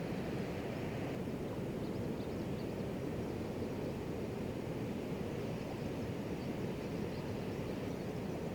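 Waterfall's steady, even rush of falling water, deep-toned, with a few faint high ticks over it.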